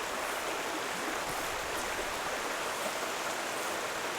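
Mountain trout stream flowing: a steady, even rush of water.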